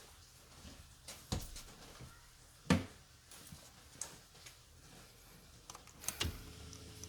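A few separate knocks and clicks of hard parts or tools being handled, the loudest about three seconds in and a double knock near the end. Right after the double knock a steady low hum starts.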